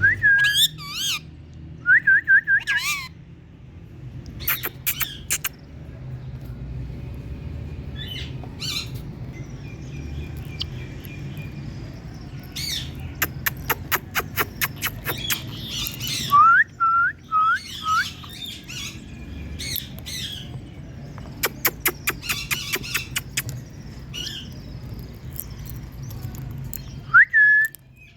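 Indian ringneck parakeets calling: runs of rapid, sharp, chattering calls, several a second, broken by short hooked whistled notes in twos and threes, over a steady low hum.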